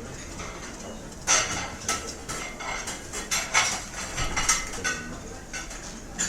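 Restaurant dining-room ambience: after a quiet second, a run of dishes and cutlery clattering and clinking for several seconds, plates and silverware being handled.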